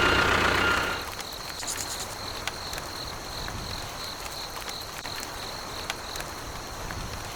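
A small motor running with a steady whine cuts off about a second in. After it a cricket chirps steadily, about three pulses a second, with a few faint clicks.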